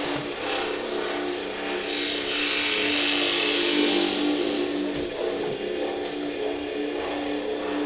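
Band rehearsal sound: a steady held droning chord from instruments and amplifiers, with a swell of hissy noise between about two and five seconds in.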